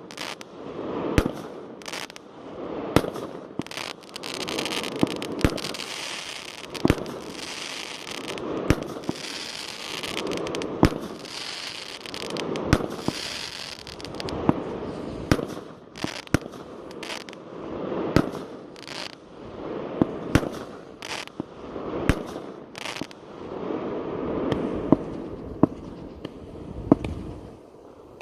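Fireworks display: shells bursting in sharp bangs, one after another every second or so, each trailed by a rolling rumble. A stretch of dense crackling fills the first half.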